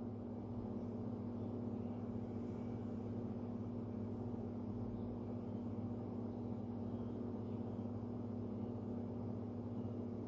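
Steady low hum with a faint hiss underneath, unchanging throughout: room tone with an electrical or appliance hum.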